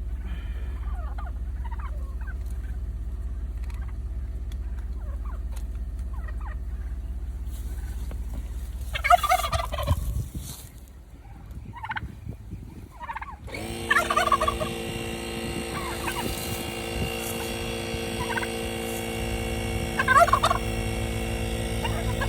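Turkeys gobbling, loudest about 9 seconds in and again about 20 seconds in, over a steady machine hum from a portable tire inflator. The low hum drops away about 10 seconds in, and a higher, steadier hum cuts in a few seconds later.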